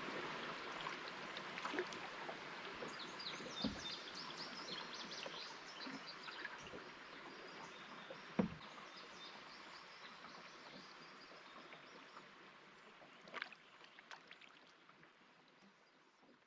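Water rippling against a canoe on a river, with a few dull knocks like a paddle touching the hull, the strongest about eight seconds in, and a bird chirping a quick run of short notes a few seconds in. The whole fades out gradually to silence.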